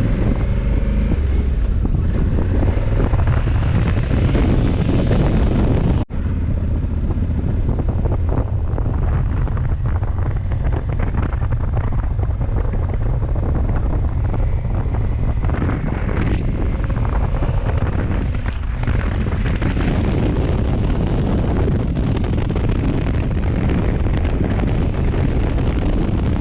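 Adventure motorcycle riding, its engine running under heavy wind buffeting on the microphone. The sound cuts out for a moment about six seconds in.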